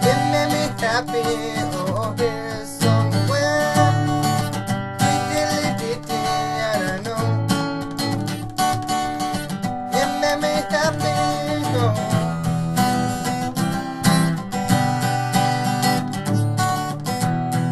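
Acoustic guitar strummed steadily in an upbeat song, with a wordless singing voice gliding over it in several stretches.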